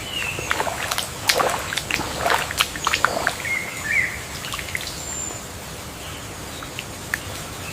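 Birds chirping and calling over a steady ambient hiss, with a quick run of short clicks and chirps in the first few seconds, a brief warbling call near the middle and a thin high whistle soon after.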